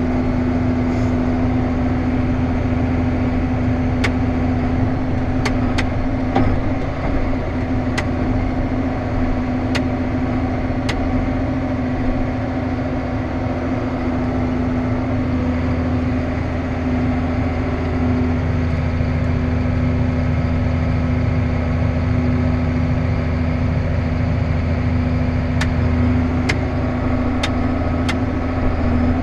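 Steady drone of a farm machine's diesel engine running at constant speed during soybean harvest, with scattered sharp ticks over it.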